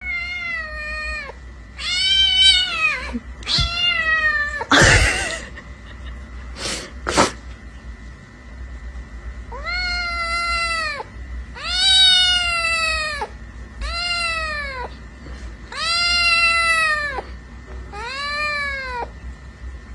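A kitten meowing over and over: about eight drawn-out, high meows, each rising then falling in pitch. A short loud burst of noise comes about five seconds in, and two sharp clicks follow about two seconds later.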